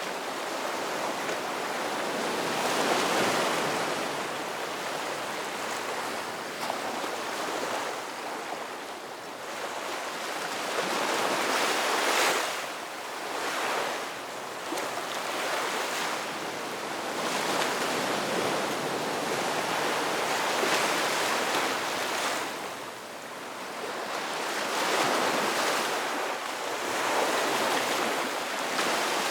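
Ocean waves breaking and washing on a shore, a continuous surf that swells and eases every few seconds, with a louder wave about twelve seconds in.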